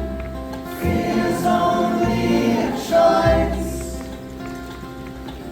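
A band playing live, with several voices singing together in harmony over sustained notes and low bass notes that come in about every second.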